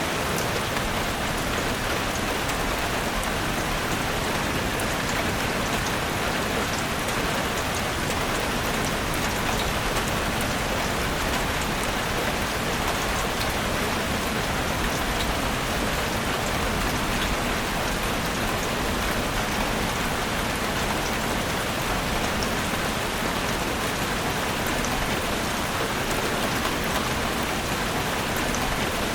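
Steady rain falling in a forest, a dense even hiss of drops with fine individual drop ticks.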